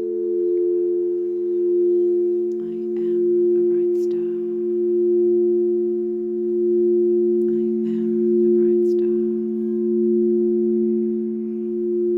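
Several singing bowls ringing together in a steady, layered drone, the loudness swelling and fading in slow waves. A few faint high ticks sound now and then.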